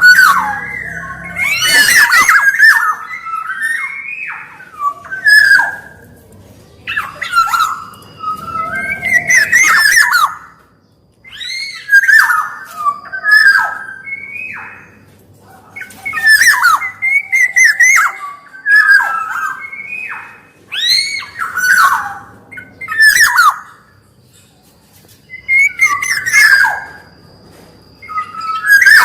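Black-naped oriole (kepodang) singing: short phrases of fluting, slurred whistles, repeated every two or three seconds with brief pauses between.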